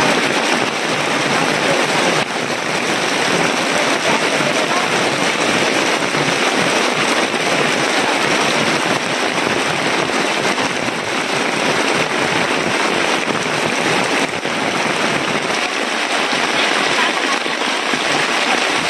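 Heavy rain falling steadily: a dense, even hiss of downpour that holds at one level.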